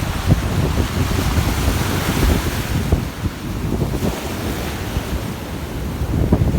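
Surf breaking and washing up the beach, with wind buffeting the microphone in gusts.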